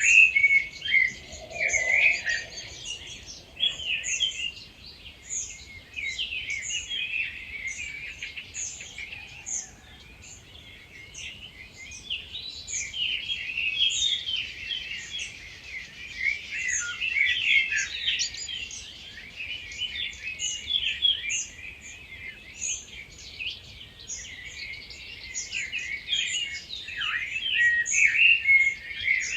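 Dawn chorus: many wild birds singing at once in dense, overlapping song, with one high thin note repeated over and over above it.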